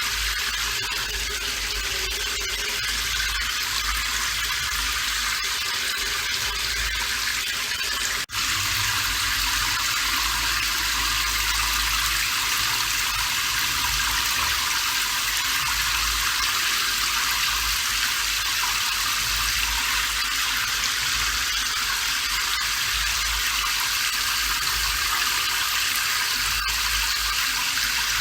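Steady hiss of falling rain, even and unbroken, with a momentary dropout about eight seconds in.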